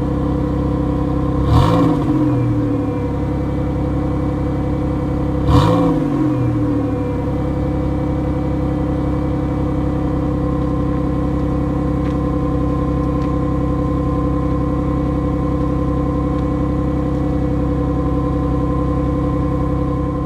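2004 Pontiac Grand Prix GTP's supercharged 3800 V6 exhaust idling steadily, blipped twice: a quick rev about a second and a half in and another about five and a half seconds in, each dropping back to idle.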